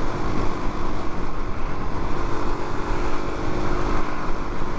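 Heavy wind rush buffeting the microphone while riding a Suzuki DR-Z400 at speed, with the bike's single-cylinder engine holding a steady hum underneath.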